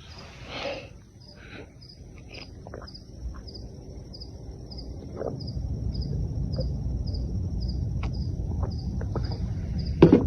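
An insect chirping at an even pace, about three short high chirps a second, with scattered faint clicks. A low rumble builds underneath from about halfway through.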